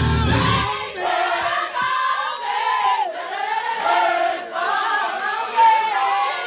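Music with a heavy bass line for under a second, then it cuts off and voices go on singing unaccompanied, a wavering melody held and bent in pitch.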